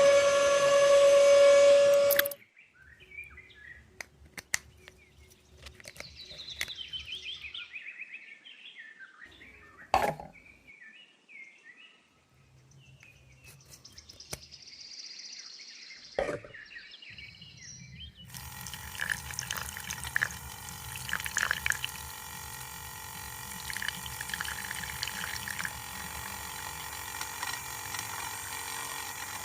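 A brief high-pitched motor whine at the start, then scattered small clicks and two sharp knocks, and from about 18 s in a steady running of water.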